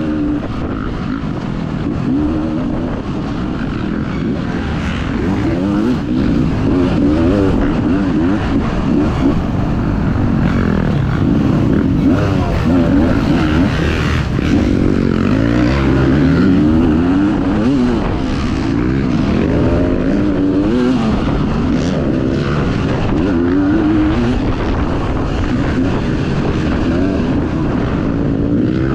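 Dirt bike engine revving up and down without a break, its pitch rising and falling every second or two as the throttle is worked around the track.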